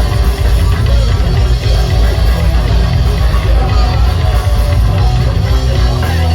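Loud rock music from a band playing, with guitar and drums.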